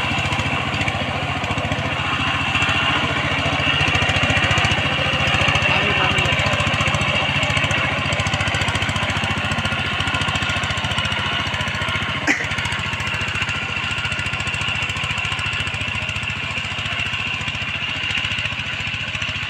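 Power tiller's engine running steadily, with a single sharp click about twelve seconds in.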